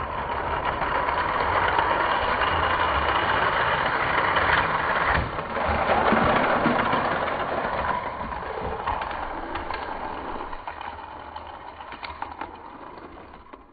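Two Hot Wheels die-cast cars rolling at speed down a plastic race track, a steady noisy rolling sound that dies away over the last few seconds.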